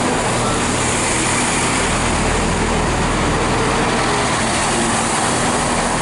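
GWR passenger train at the platform, its engines and equipment running as a steady, unbroken drone with a low hum underneath.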